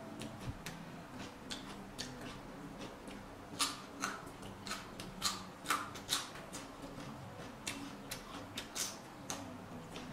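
Close-miked eating of raw vegetables dipped in chopped fish paste: irregular mouth clicks and smacks of chewing, a few louder ones between about three and a half and nine seconds in, over a faint steady low hum.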